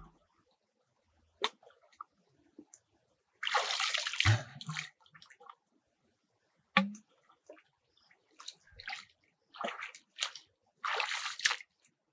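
Water sloshing and splashing in three short bursts, with a few sharp knocks between them.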